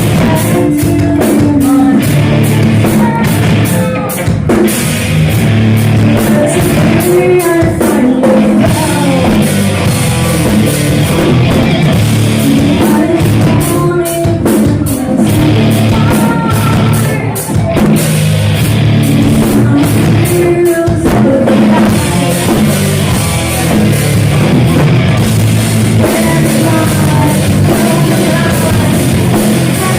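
Heavy metal band playing live, with drum kit, guitars and a singer, loud and continuous.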